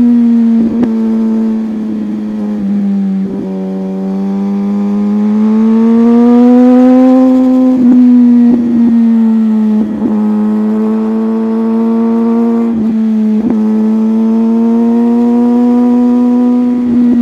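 Sport motorcycle engine running at steady high revs while riding, its note rising and falling slowly with the throttle. Several brief sharp knocks sound over it at irregular intervals.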